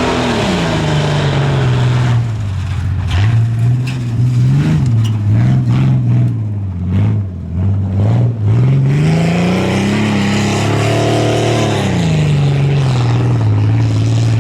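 Off-road competition truck's engine working through a tuff truck course, throttle opened and let off. The revs drop at the start, then come several short throttle blips, and the revs climb again about nine seconds in before dropping back near twelve seconds.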